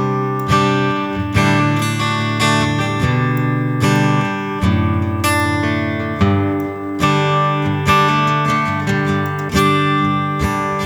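Steel-string acoustic guitar, a Yamaha's piezo pickup, played through a Line 6 HX Stomp XL with an acoustic guitar impulse response: a looped strummed chord progression, a new strum about every second.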